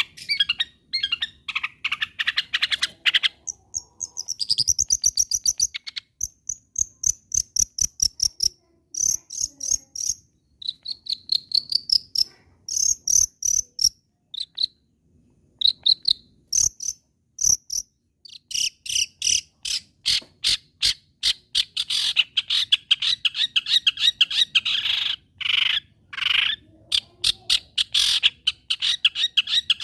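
Long-tailed shrike in full song: a fast, varied run of rapid clicking notes and short high whistles, turning to a harsh, scratchy chatter in the last third.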